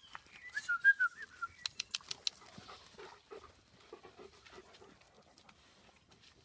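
Golden retriever giving a short, wavering high whine, followed by a quick run of sharp clicks.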